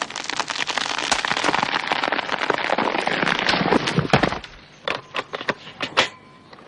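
Rapid gunfire: a dense rattle of shots for about four seconds, then a handful of single shots.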